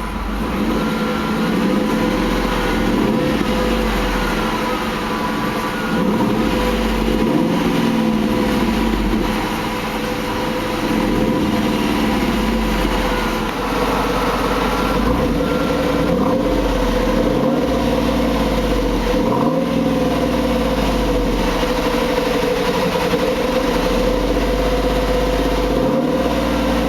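The 4.6-litre V8 of a 1999 Ford Mustang Roush Stage 2 running, its revs rising and falling again and again over a steady drone.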